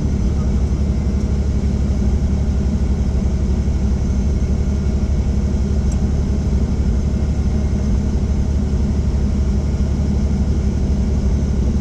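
Helicopter running steadily, with a rapid, even rotor beat over a low, constant engine drone.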